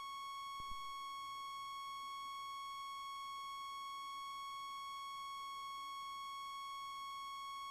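A steady, unchanging electronic tone at one pitch with overtones, like a long beep, with no engine or cockpit noise under it.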